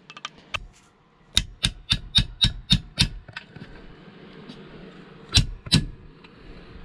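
Sharp metallic taps of a hand tool on metal as a part is worked free: about eight in quick succession, roughly four a second, then two more a couple of seconds later.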